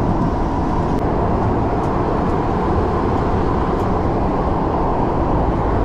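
Underground metro train running through a tunnel, heard from inside the carriage: a steady, loud rumble and rush of wheel and tunnel noise.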